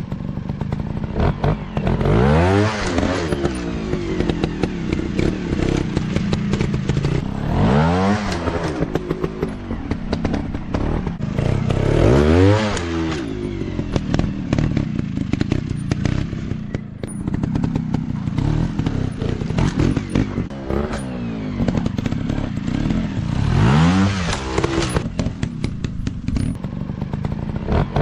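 Dirt bike engines running and revving in repeated bursts. About five times, the pitch climbs sharply and falls back, with steadier running in between.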